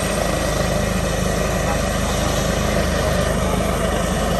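EC645 helicopter running steadily, a fast even rotor beat under a continuous turbine noise.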